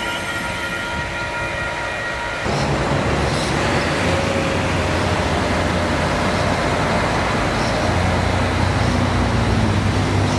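Adelaide Metro 3000-class diesel-electric railcar pulling away from a station. A high steady whine gives way abruptly, about two and a half seconds in, to a louder, deeper engine rumble.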